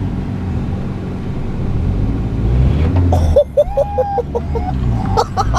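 Honda Civic engine running and revving up, growing louder over the first three seconds or so. About three and a half seconds in, people's voices break in over it with short yelps.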